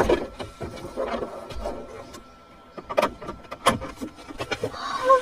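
Handling noises inside a car: scattered clicks and knocks, with two sharper knocks about three seconds in and half a second later.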